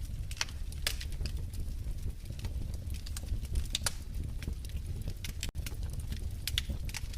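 Wood fire burning in a fireplace, with irregular sharp crackles and pops, a few a second, over a low steady rumble of the flames.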